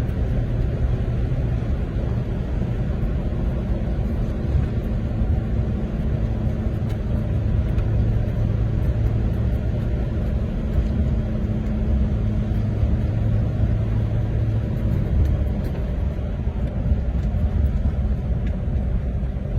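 Classic car engine running steadily, a low rumble with a steady hum that holds without revving.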